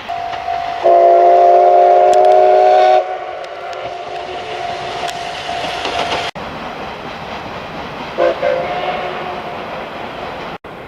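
The SL Ginga's C58 steam locomotive whistle sounding a loud chord of several tones for about two seconds, then thinning to one tone that lingers. A short second toot follows about eight seconds in, over the steady rumble of the train.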